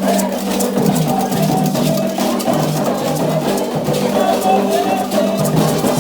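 Candomblé ritual music: voices singing together over a steady beat of drums and struck percussion.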